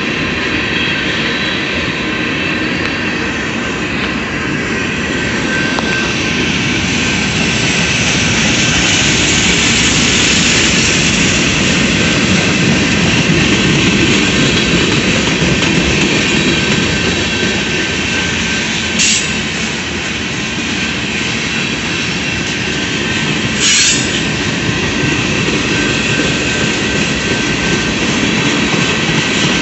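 Freight cars of a CSX mixed manifest train (boxcars, tank cars and covered hoppers) rolling past close by: a steady noise of steel wheels on rail with a faint, thin squeal. Two short bursts of higher-pitched noise come about two-thirds of the way through.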